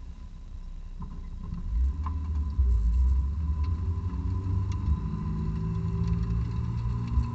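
The 2006 Honda S2000's four-cylinder engine, on stock exhaust and heard from inside the cabin, pulls away at low revs. It grows louder and rises gradually in pitch as the car gathers speed. A few light clicks and a faint steady whine sit beneath it.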